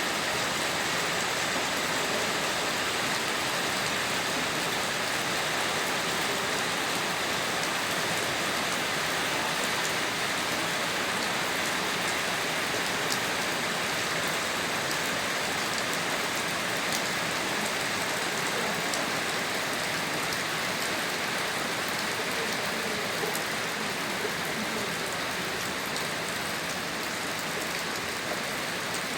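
Steady rain falling, an even hiss with scattered sharper taps of individual drops hitting a nearby surface.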